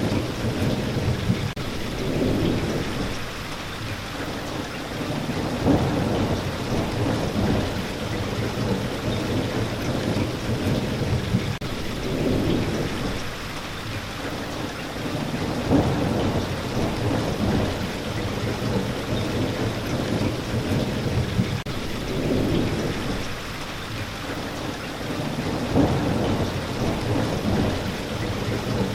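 Steady heavy rain with low rolling thunder that swells and fades every few seconds.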